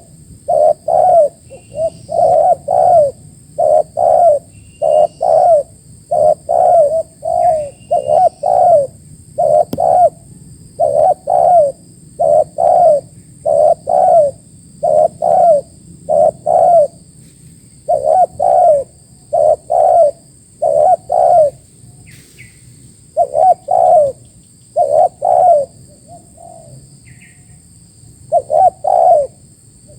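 Spotted dove (tekukur) cooing loudly and repeatedly, short arching coo notes in quick runs with a pause of about two seconds roughly three-quarters of the way through. A steady high-pitched tone sits in the background, with a few faint chirps early on.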